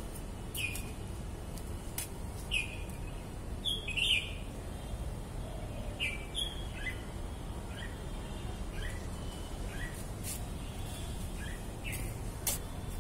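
A bird calling in short chirps that fall in pitch, repeated about once a second, with a few sharp clicks between them, over a steady low background noise.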